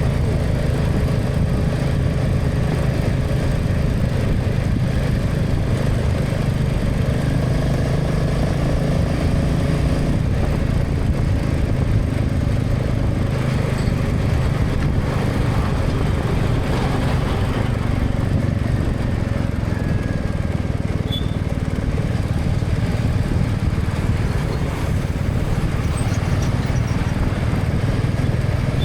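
Motorcycle engine running steadily at cruising speed, with the rumble of wind and road noise on a helmet-mounted camera.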